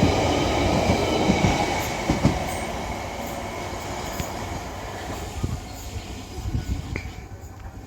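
London Underground Central Line 1992 stock tube train pulling out of the station, its wheel and running noise fading steadily as it leaves.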